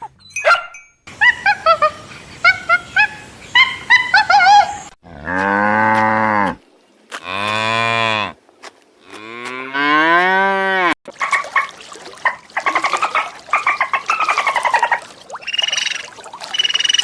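Cows mooing: three long, low moos one after another in the middle. Before them comes a quick run of short, high chirping calls, and after them a stretch of rougher, noisier animal calls.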